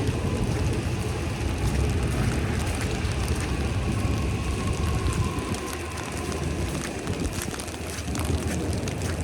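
Falling wet snow or sleet pattering steadily, with a low rumble underneath and a faint thin whine in the middle.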